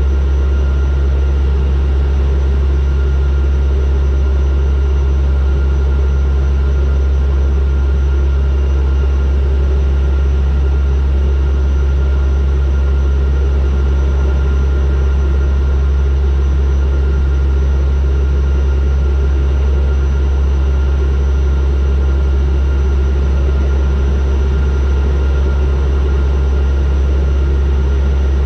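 Turboprop aircraft in flight: the steady drone of its engines and propellers, a strong deep hum with a few thin steady high tones above it, unchanging throughout.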